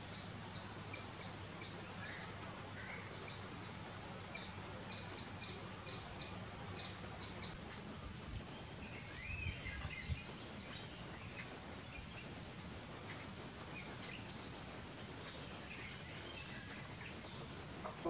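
Wild birds calling: a quick run of short, high chirps through the first half, then a few lower sliding notes, over a steady outdoor background hiss.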